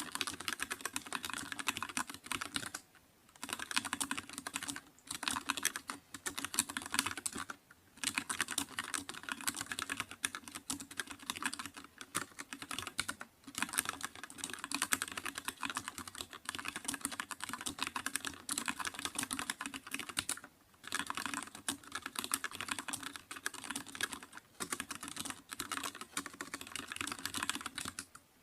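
Computer keyboard being typed on quickly and continuously, a dense run of key clicks broken by a few short pauses.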